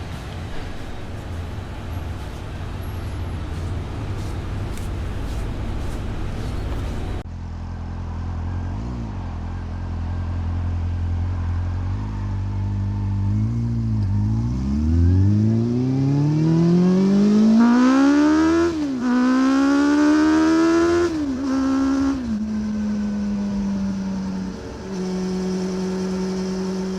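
Honda CB400 Revo's inline-four with a Moriwaki exhaust, steady engine and road noise at first, then accelerating hard: the engine note climbs sharply in pitch and drops back at quick gear shifts before settling into a steady cruise.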